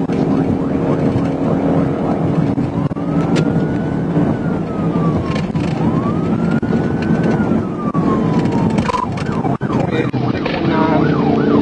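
Police car siren in a slow wail, rising and falling twice, then switching to a faster yelp near the end, over steady engine and road noise of the pursuing patrol car.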